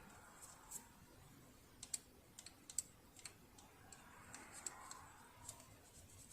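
Faint, irregular light clicks and ticks of tools and small metal parts being handled on a home sewing machine during its partial disassembly.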